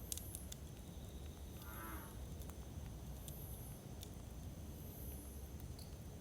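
Wood campfire burning with a steady low rumble and scattered sharp crackles and pops. About two seconds in comes a short high tonal whine.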